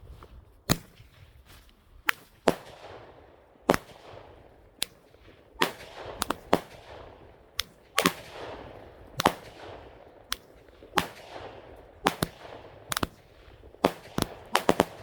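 Fireworks going off in an uneven run of about twenty sharp bangs, one or two a second, each with a fading tail.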